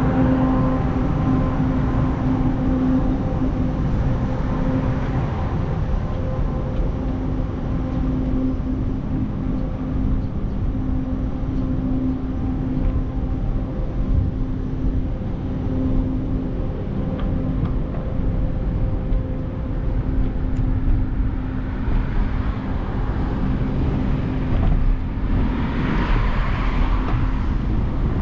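Road noise during a bicycle ride in town traffic: a constant low rumble, with a steady hum from a nearby vehicle that fades out about halfway. A vehicle passes near the end.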